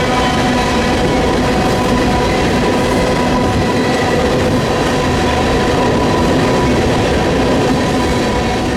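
A freight train's cars rolling past close by, a loud steady rumble with clatter from the wheels on the rails and a few steady ringing tones held above it, easing off slightly near the end.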